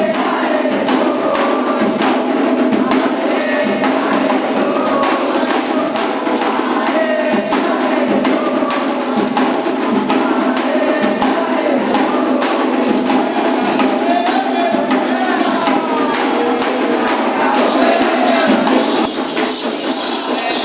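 Candomblé ritual music: drums and other percussion beating a steady rhythm while voices sing.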